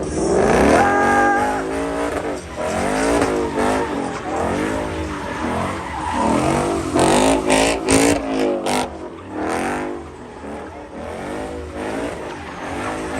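Car engine revving up and down again and again, with tire squeal, as cars do donuts; a few sharp cracks about seven to nine seconds in.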